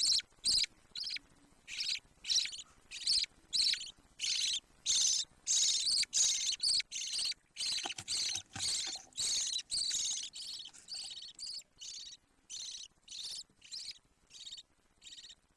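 Budgerigar chicks calling: a rapid string of short, raspy, high-pitched chirps, about two or three a second, growing fainter toward the end.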